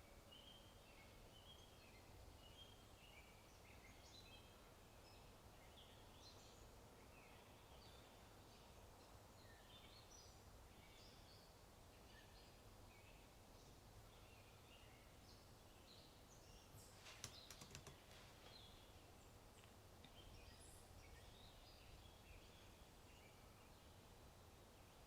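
Faint birdsong, many small chirps scattered throughout over a low steady background hiss. A short run of computer-keyboard typing clicks about seventeen seconds in.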